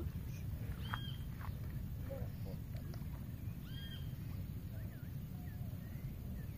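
A bird calling outdoors: a short arched high note twice, about three seconds apart, with a few fainter chirps between. Under it runs a steady low rumble.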